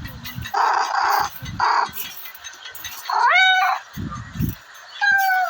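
Domestic cat meowing: one rising-and-falling meow about three seconds in and a shorter falling meow near the end, with short noisy sounds in the first two seconds.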